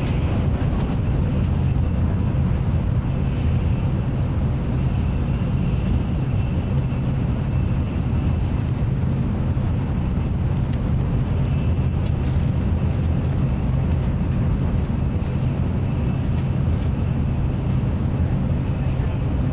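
Steady low rumble of a Nozomi Shinkansen high-speed train running at speed, heard inside the passenger cabin. A faint high whine comes and goes, and there are a few light clicks.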